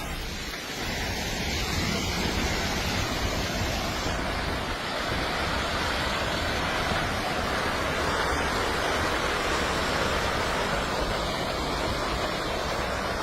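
Steady, loud rushing noise with no distinct knocks or voices in it.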